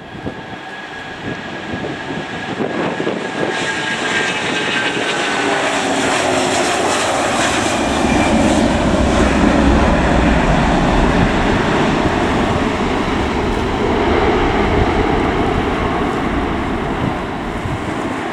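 Twin-engine Airbus A330-300 jet airliner at takeoff power, a whine falling in pitch over the first few seconds, then growing into a loud, steady engine rush.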